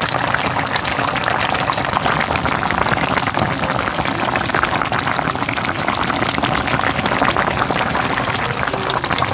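Braised beef short ribs (galbijjim) with rice cakes boiling hard in a wide pot: a dense, steady crackle of bubbling sauce.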